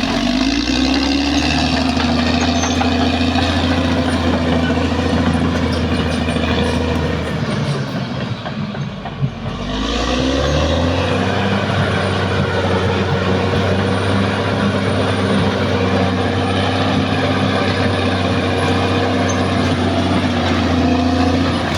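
Caterpillar D6R XL bulldozer's diesel engine running steadily, dropping briefly about eight seconds in and then picking back up.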